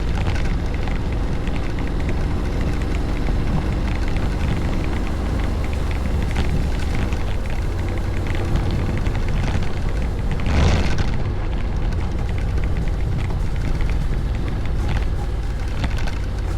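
Wind buffeting the microphone over the steady low drone of a Honda Forza 750 maxi-scooter being ridden, with a brief louder whoosh about eleven seconds in.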